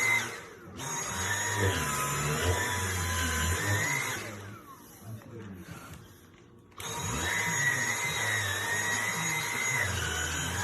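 An electric household appliance motor whirring steadily with a wavering whine. It fades out about four and a half seconds in with a falling whine, then starts again abruptly near seven seconds.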